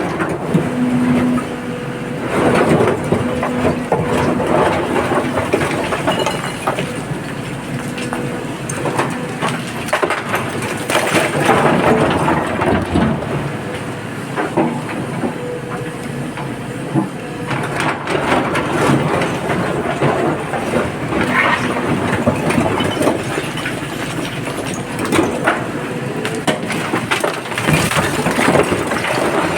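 A diesel excavator running under load, with frequent irregular clattering and knocking of rock and earth as it loads a dump truck.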